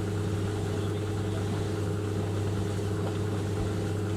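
White Knight 38A compact tumble dryer running, a steady even hum.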